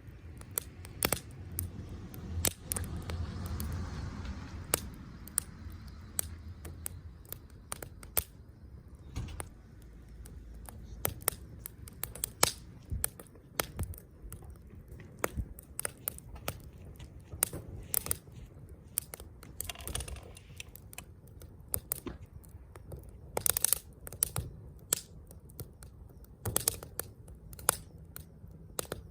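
Wood fire crackling: irregular sharp pops and snaps, sometimes several in quick succession, over a low rumble of burning, with a brief swell of hissing flame noise a few seconds in.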